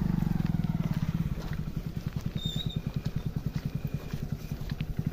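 Motorcycle engine running at low revs with a rapid, even chugging beat. It eases off a little in the middle and picks up again near the end.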